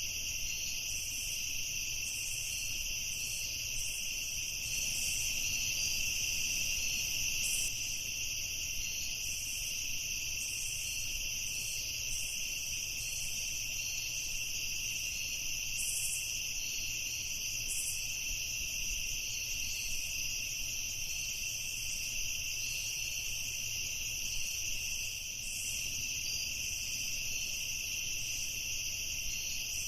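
Night ambience of crickets chirring in a steady, unbroken high-pitched chorus, with faint intermittent chirps above it.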